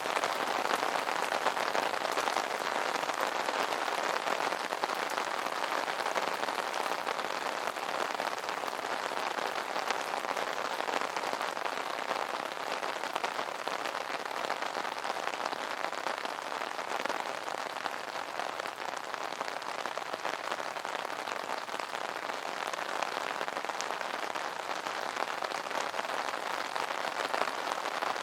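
Rain falling on an umbrella: a steady, dense patter of drops on the taut canopy.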